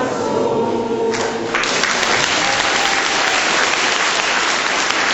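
A group singing a chant that ends about a second in, then long, steady applause from a crowd of people.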